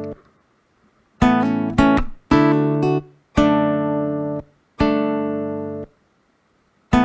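Acoustic guitar music: single strummed chords, each left to ring for about a second, separated by short silences.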